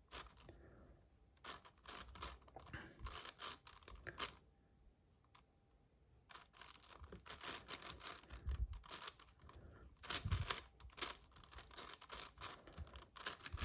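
Layers of a 7x7 magnetic puzzle cube being turned by hand during edge pairing: runs of quick plastic clicks and clacks, with a short pause before the middle and denser turning after it.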